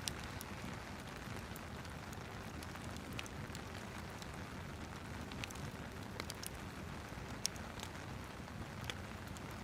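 Steady rain with a wood fire crackling, with sharp pops scattered throughout, the loudest about seven seconds in.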